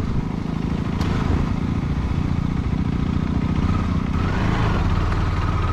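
Quarter-litre motorcycle engine running steadily under way, a low rumble with rough, fluttering noise over it.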